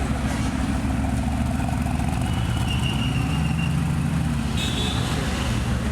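A car engine idling steadily with a low, even hum, and faint high whines briefly about two seconds in and again near the end.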